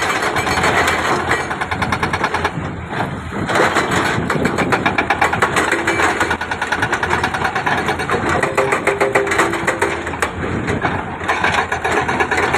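Heavy construction machine's diesel engine running, with a dense, rapid rattle throughout.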